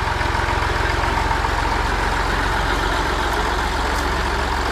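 A heavy vehicle engine running steadily with an even, low pulsing rumble.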